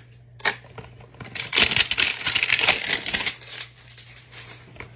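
Trading cards and their packaging being handled at close range: a single click, then about two seconds of dense crackling and rustling of plastic and card, then a few lighter clicks.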